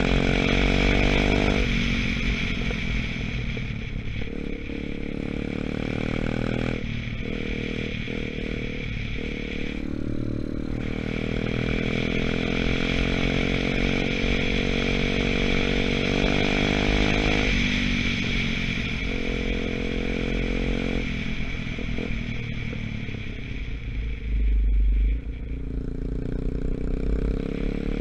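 Gunshot 125cc dirt bike engine running on the move, its pitch stepping up and down several times with throttle and gear changes; the engine is still being run in. A brief low thump about 25 seconds in.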